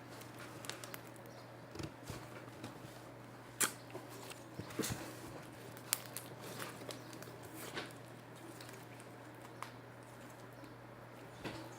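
Scattered soft clicks, taps and small squishes of handling noise over a steady low hum.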